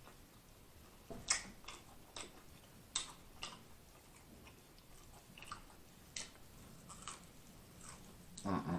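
Close-miked eating: wet mouth clicks and lip smacks, scattered about once or twice a second, while chewing sauced honey BBQ chicken wings, with a louder burst near the end as a wing is bitten into.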